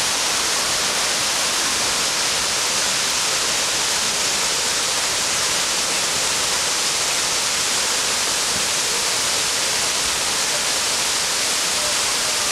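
Waterfall: a steady, unbroken rush of falling water, strongest in its hiss.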